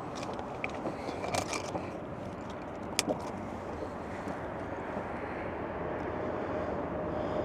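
A steady rumble with a few sharp clicks and knocks about a second in and again around three seconds. A motor's drone grows slowly louder near the end.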